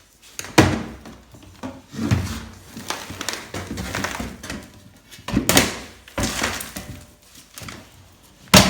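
Knocks and scraping from cleaning ash and debris out of a wood-burning fireplace. There are several separate knocks, with a stretch of scraping in the middle and the sharpest knock near the end.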